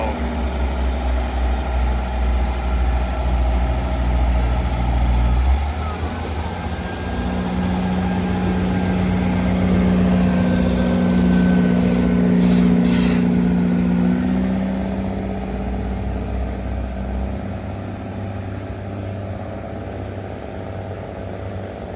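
Diesel locomotive of a passenger train pulling away from a station: a deep engine rumble gives way to a steady engine tone that is loudest about halfway and then fades as the train moves off, with a couple of short hisses in the middle.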